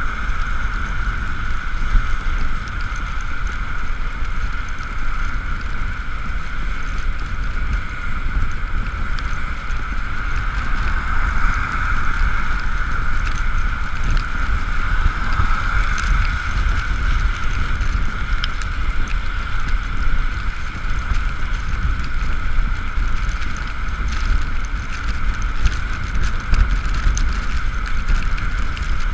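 Ekoway ML5000 electric scooter riding along: the electric motor gives a steady high whine that drifts slightly in pitch with speed, over heavy wind rumble on the camera microphone.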